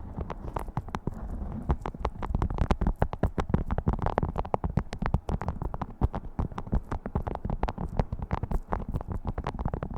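Beeswax food wrap crinkled and handled close to the microphone: a dense run of irregular sharp crackles over a low rumble.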